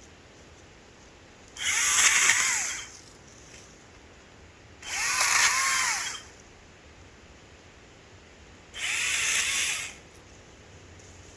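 ECHO DCS-2500T 56V battery electric chainsaw run in three short bursts a few seconds apart, each about a second long, its motor whine rising then falling in pitch as it spins up and winds down.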